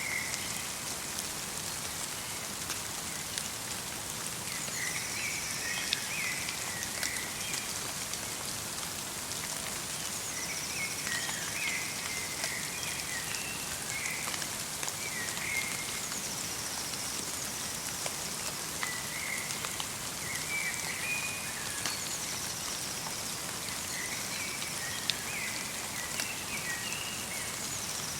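Light rain mixed with snow, pattering steadily in many small drops. Small birds chirp in short, twittering phrases every few seconds, with a thinner, higher call now and then.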